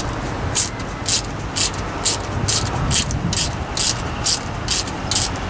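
Ratchet wrench turning an M10 x 1.5 thread chaser down a starter bolt hole in a 6.2 diesel engine block, the pawl clicking in short bursts about twice a second on each return stroke.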